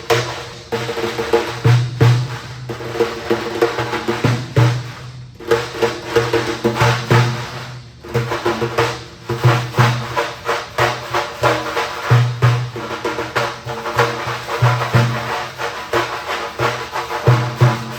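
Rhythmic percussion music: a steady beat of sharp drum hits over a recurring low pulse, with pitched melody notes underneath. The beat drops out briefly twice, about five and eight seconds in.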